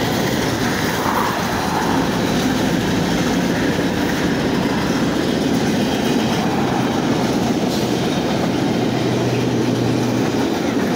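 Train passing close by, its wheels clattering over the rail joints in a steady, loud rumble, with a low steady hum from the locomotives through the later part.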